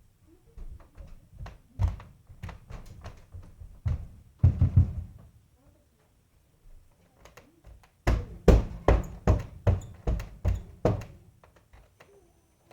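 Rapid heavy thumps of fast running across a floor, in two bursts at about three to four steps a second, the second burst, about eight seconds in, the louder. A short scraping rush comes just after four seconds.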